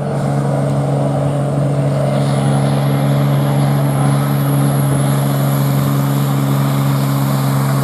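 Turbocharged diesel pulling-tractor engine under full load, dragging the weight sled at steady revs, with a high whistle that rises a little about two seconds in.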